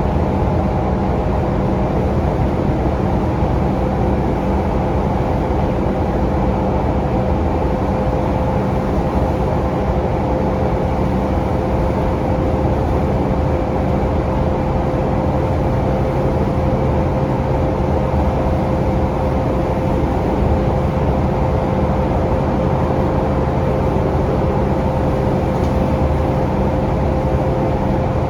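Scania K360UA articulated bus with a Scania DC9 engine and ZF automatic gearbox, heard from inside while it drives: steady engine, drivetrain and road noise with a constant whine over it. The engine note drops lower about halfway through.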